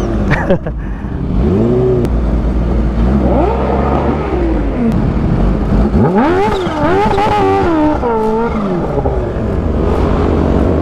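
Inline-four sport motorcycle engines revving loudly. The pitch climbs and falls several times, with a wavering stretch after the middle.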